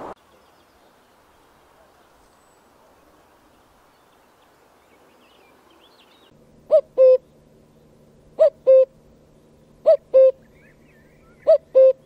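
A bird calling four times, each call a short low note followed by a longer one, about a second and a half apart, starting about halfway through. A faint steady hum lies beneath the calls.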